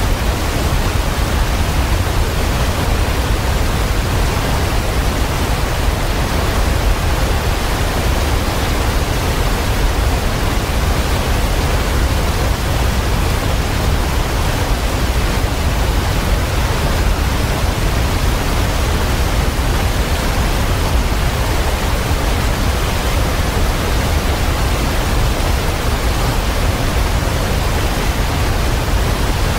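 Waterfall: a steady, even rush of falling water, heaviest in the low end, with no breaks or changes.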